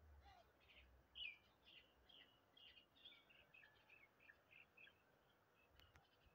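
Faint birds chirping, short repeated notes a few times a second, with a low rumble in the first second.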